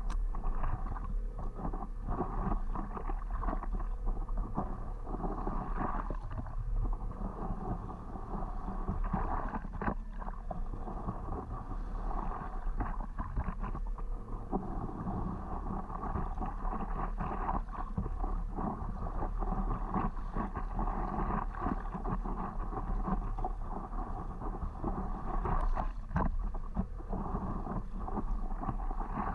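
Water sloshing and splashing irregularly around a stand-up paddleboard, with a steady low rumble of wind on the microphone.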